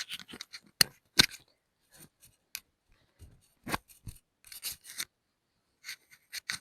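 Handling noise from a clip-on microphone being put on: irregular sharp clicks and short rustles as it rubs and scrapes against clothing.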